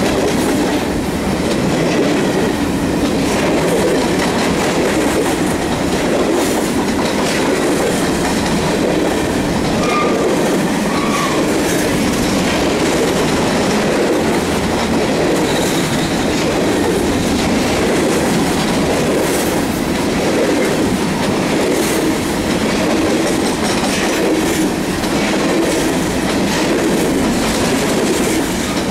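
A freight train's cars rolling past at close range: a steady, loud rumble and clatter of steel wheels on rail, with irregular clicks from the wheels and couplings.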